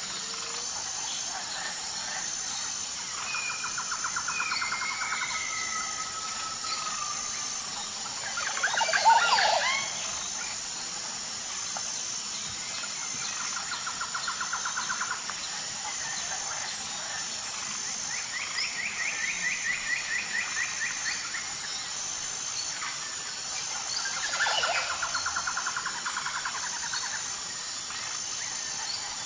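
Songbirds singing in repeated rapid trills and short gliding whistles over a steady high insect chirring. A louder call rings out about nine seconds in.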